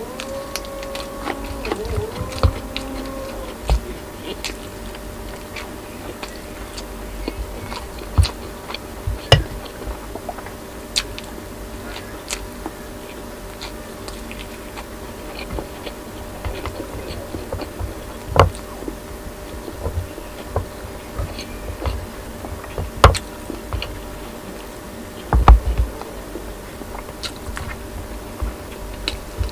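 Close-miked eating: a person biting and chewing soft pork and a green chili with open, wet mouth sounds. Sharp clicks and smacks come every second or two throughout.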